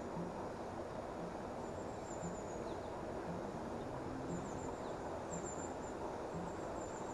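Steady outdoor background noise, with faint high-pitched chirps now and then, like small birds.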